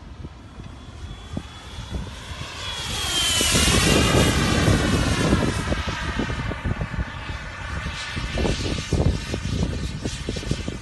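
Electric ducted-fan whine of a Freewing F-22 model jet in flight, growing loud as it passes close about three seconds in, dropping in pitch, then easing off. Wind buffets the microphone with a low rumble throughout, in stronger gusts near the end.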